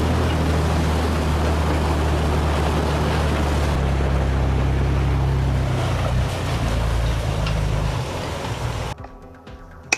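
Heavy diesel engine of a logging truck working hard, a low drone with wind-like noise over it, its pitch shifting about four and six seconds in. It fades, then cuts off abruptly near the end, followed by a single sharp click.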